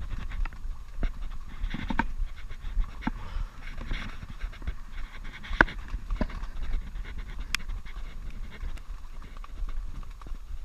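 A man breathing heavily in and out, with a low rumble of wind on the microphone and scattered small knocks.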